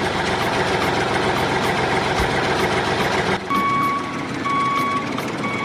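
A vehicle engine runs steadily. About three and a half seconds in, a reversing beeper starts, beeping about once a second, three times.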